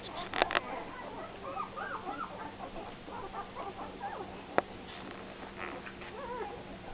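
Nine-day-old Greater Swiss Mountain Dog puppies whimpering and squeaking, many short rising-and-falling cries overlapping. There is a cluster of sharp clicks about half a second in and a single click near the middle, over a steady low hum.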